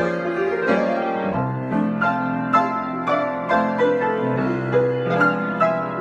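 Solo piano improvisation: a steady flow of notes, several a second, with a melody over a moving bass line.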